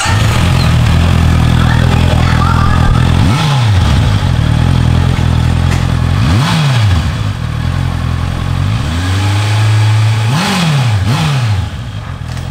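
Honda CBR650F inline-four with an Akrapovic full-system exhaust idling loudly, blipped five times. Each rev rises sharply and drops straight back to idle.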